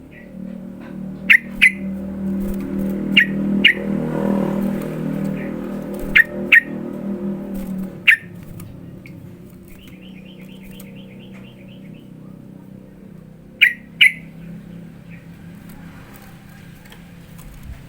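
Yellow-vented bulbul calling: short, sharp notes, mostly in quick pairs, and a fast chattering trill about ten seconds in. Under them runs a low steady hum that drops away about eight seconds in.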